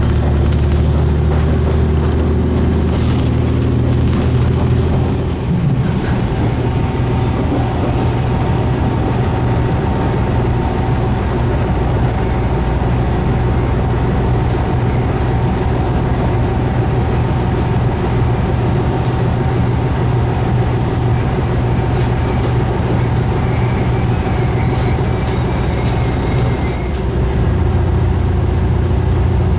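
Diesel railcar running, with a steady low engine drone that changes note about five seconds in and again near the end. A short high squeal, typical of wheels on a curve, comes a few seconds before the end.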